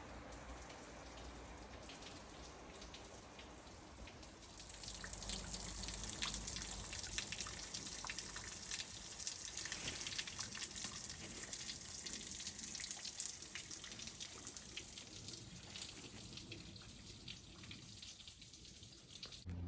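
Water trickling and dripping, a steady patter of many small drops that grows louder about four seconds in.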